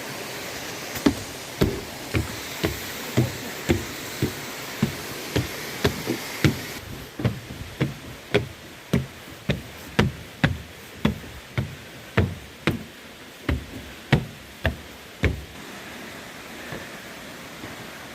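Walking footsteps, about two a second, knocking on a hollow walkway or footbridge, with a mountain stream rushing underneath; the stream's hiss drops off about seven seconds in and the steps stop near the end.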